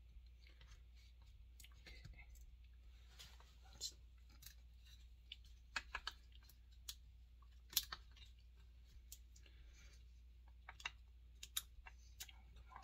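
Faint, scattered clicks and light scrapes of small metal parts being handled and fitted, with a low steady hum underneath. This is a rolled tin-can sleeve and oil pump being worked over a chainsaw crankshaft.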